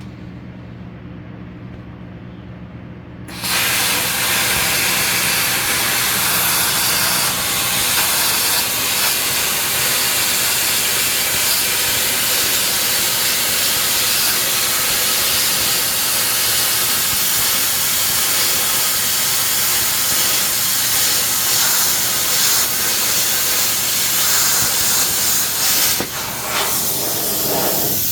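ARCCAPTAIN CUT50 plasma cutter: a low steady hum, then about three seconds in the torch fires and a loud, steady hiss of the plasma arc and air runs on as it cuts 16-gauge sheet metal. The hiss falters briefly near the end before carrying on.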